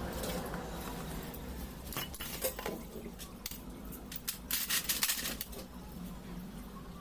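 Small metal parts and tools clinking and clicking against each other during hand assembly of a diesel rotary fuel injection pump, in a few scattered knocks and then a quicker cluster of clinks about two thirds of the way through.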